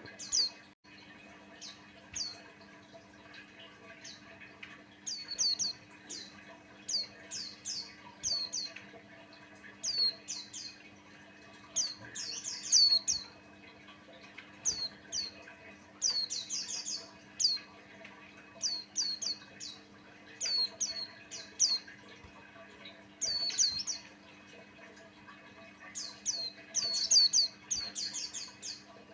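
White-eye song: fast clusters of short, high, downward-sweeping chirps, repeated every second or so with brief gaps. A faint steady hum runs beneath.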